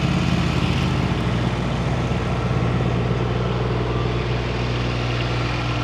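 A truck's diesel engine idling steadily, its low hum shifting slightly about a second in.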